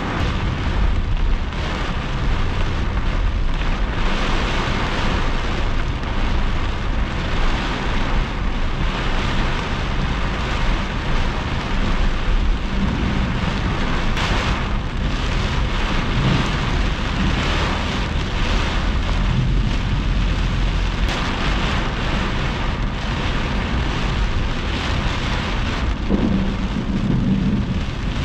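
Heavy thunderstorm rain pounding on a car's roof and windshield, heard from inside the car, with a steady low rumble beneath.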